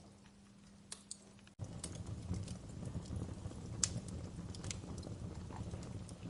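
Wood fire crackling in a fireplace: irregular sharp pops and snaps over a low rumble of flames. About a second and a half in, the rumble abruptly grows louder.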